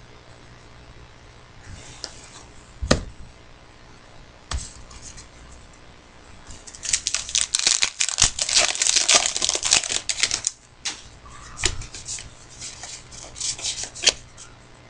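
Trading-card pack wrapper being torn open and crinkled while cards are handled, with a sharp knock about three seconds in; the tearing and crinkling is densest from about seven to ten seconds.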